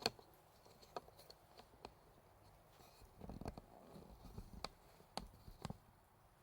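Wood fire crackling faintly: scattered sharp pops, with a busier stretch of softer crackle near the middle.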